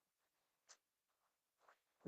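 Near silence: a pause with only very faint room tone.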